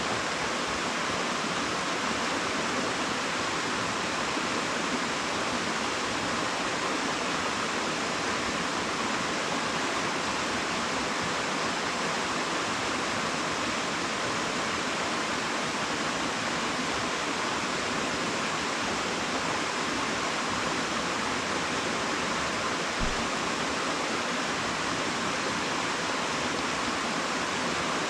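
Waterfall: a steady, unbroken rush of falling water, strongest in the hiss range. One brief low bump sounds about three-quarters of the way through.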